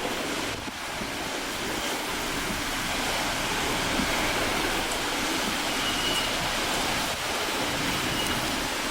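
Steady hiss of heavy hurricane rain and wind, with little wind buffeting on the microphone.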